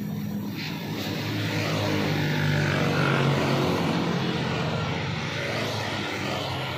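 A motor vehicle engine running, growing louder to a peak about three seconds in and then easing off.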